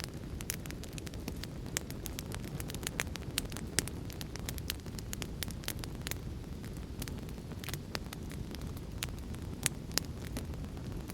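A fire in a fireplace crackling: irregular sharp pops and snaps over a steady low rumble of the flames. A few louder pops come about four seconds in and near the end.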